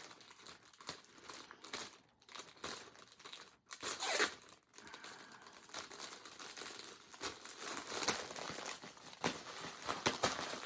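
Plastic packaging crinkling and rustling in irregular handfuls as yarn skeins are handled, loudest about four seconds in.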